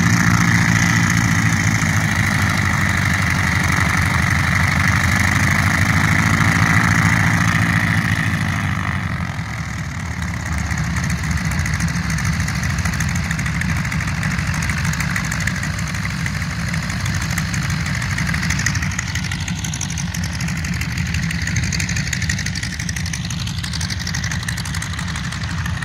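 Vintage aircraft's radial piston engine running at idle. About nine seconds in it drops a little in level and tone, then carries on steadily.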